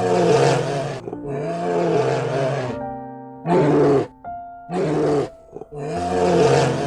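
Bear growling and roaring, about five rough calls each under a second and a half long, over steady background music.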